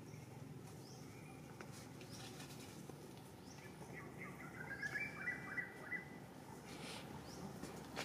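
Faint bird chirps over a steady outdoor background hiss, with a quick run of short, high calls between about four and six seconds in.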